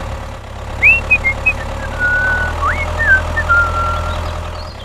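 Steady low engine-like hum, as of a small toy tractor running, with a series of short high whistling tones over it from about a second in. Two of the tones glide upward and the rest are held briefly.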